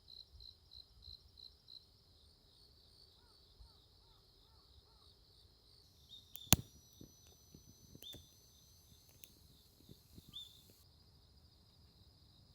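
Insects chirping in a rhythm of about four high pulses a second, easing into a fainter steady trill after about two seconds. A single sharp click about six and a half seconds in, followed by a few light taps.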